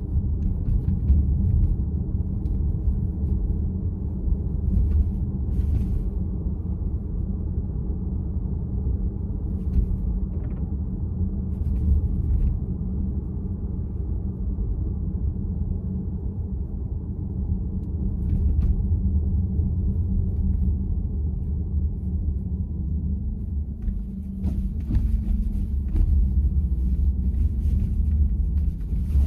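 Steady road and tyre rumble inside the cabin of a moving VW ID.4, with a few faint ticks; no steering-wheel clack is heard.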